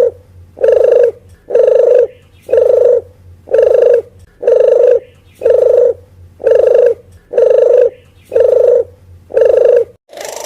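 Recorded lure call of a puter geni dove: a short coo repeated about once a second at a steady, even pace. The series stops near the end.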